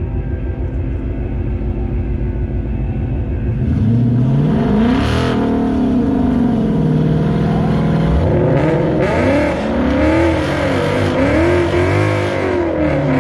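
2018 Mustang GT's 5.0 V8 with full exhaust and 10-speed automatic, running at a low steady note and then launching about four seconds in, accelerating hard with the revs climbing and dropping back at each quick upshift.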